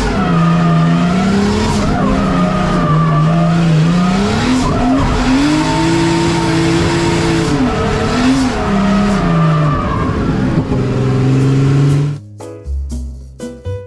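BMW E30 drift car's engine revving up and down, its pitch rising and falling through a drift, heard from inside the cabin, with tyres squealing. About twelve seconds in it cuts abruptly to music.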